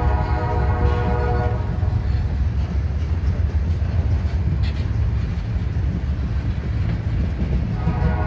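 Freight train locomotive air horn sounding a chord that cuts off about a second and a half in and sounds again near the end, over the steady low rumble of the passing train.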